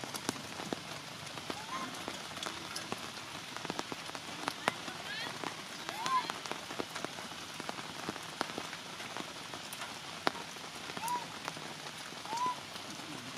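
Heavy rain falling steadily, with many sharp drops pattering close by. A few short, high rising-and-falling calls come through the rain several times.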